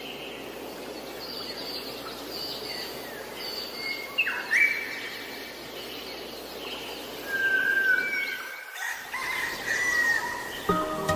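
Birds chirping and whistling, short calls that glide up and down, over a steady outdoor hiss. Music begins near the end.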